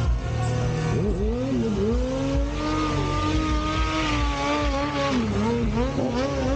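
Motorcycle engine revving hard: the pitch drops and climbs about a second in, is held high for about three seconds, then dips and rises again near the end. A rushing hiss swells in the middle of the held revs.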